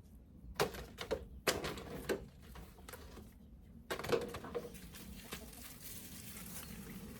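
Dry loofah gourds and their vines being pulled and handled: a series of light, sharp knocks and crackles, with a softer rustle in the second half.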